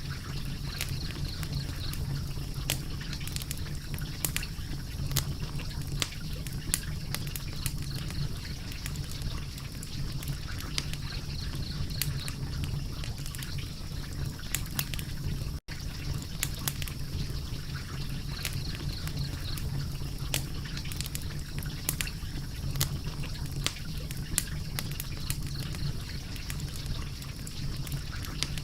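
Wood fire crackling, with irregular sharp pops and snaps over a steady low rumble. It cuts out for an instant about halfway through.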